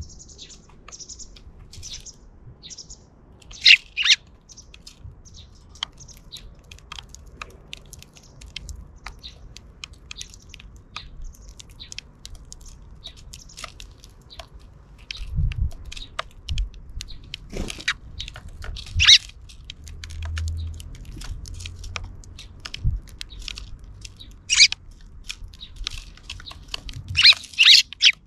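Sparrows chirping in short, scattered calls, a few louder ones standing out, with small clicks between them.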